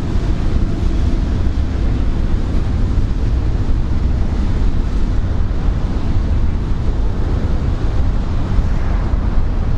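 Steady rushing noise of a heavy rainstorm with strong wind buffeting the microphone, giving a deep, unsteady rumble underneath.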